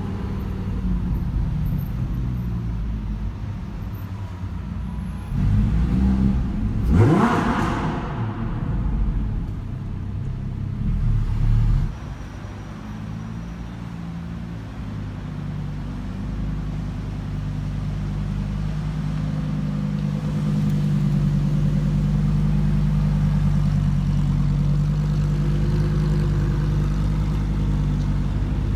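Supercar V10 engine sound. About seven seconds in, the engine revs hard with its pitch rising sharply, and it stays loud until about twelve seconds in. It then settles to a steady, even tone for the rest of the stretch.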